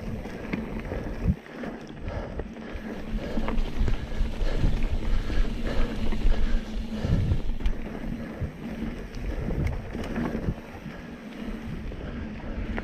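Mountain bike ridden along a dirt singletrack trail: tyre noise with irregular clicks and rattles from the bike over bumps, and wind buffeting the camera microphone.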